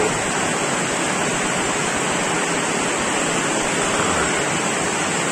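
Heavy monsoon rain pouring down, a steady even hiss.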